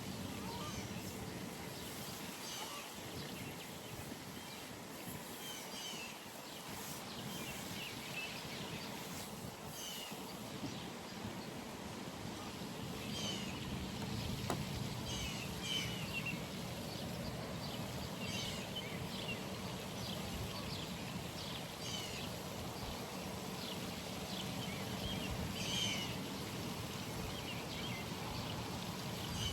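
Outdoor pond ambience: small birds chirping in short, repeated calls over a steady low background hum.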